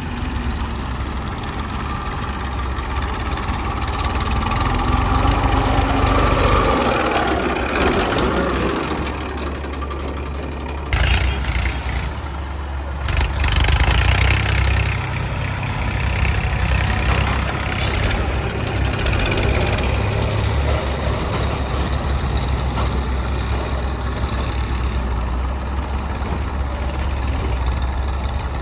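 Diesel engines of a tractor and backhoe loader running with a steady low rumble. The engine noise swells for a few seconds about five seconds in, and a sudden burst of louder noise comes in about eleven seconds in, with another a couple of seconds later.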